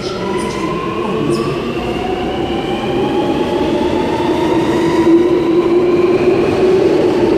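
Alstom Metropolis metro train pulling away, its traction motors giving a whine that rises steadily in pitch as it accelerates over wheel and rail rumble.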